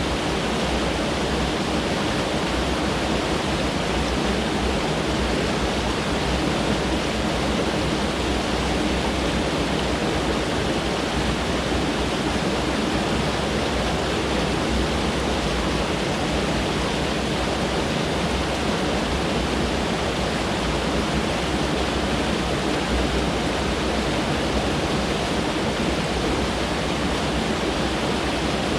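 Mountain stream rushing over rocks: a steady, unbroken water noise.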